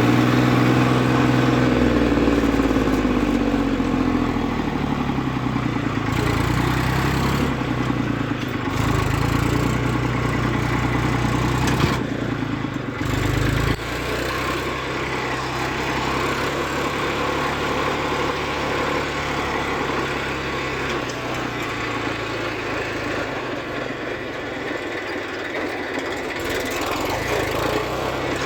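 Diesel tractor engines running steadily under load; the engine note drops in pitch over the first few seconds and shifts again about halfway through.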